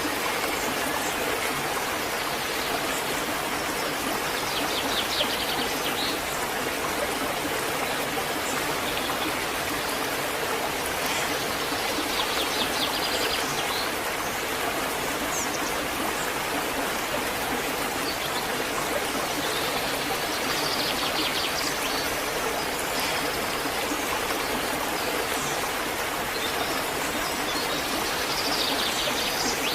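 Waterfall, a steady rush of falling water. A short, rapid high trill recurs four times, about every eight seconds.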